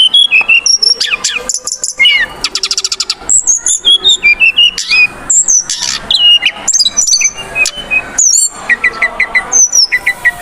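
Brown-chested jungle flycatcher singing a rapid, varied song of high whistles, quick upward and downward glides and fast trills, with hardly a pause; near the end it gives a quick run of about five short repeated notes.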